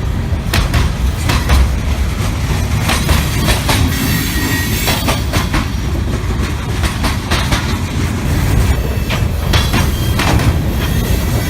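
Railroad cars rolling past with a steady low rumble and repeated clicks and clatter of wheels over the rails.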